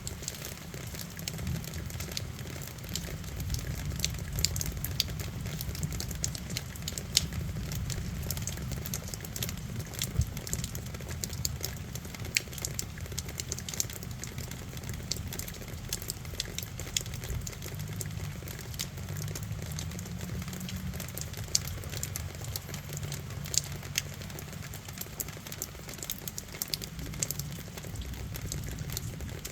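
Steady rain falling, heard as a dense scatter of sharp ticks from individual drops striking close by, over a continuous low rumble.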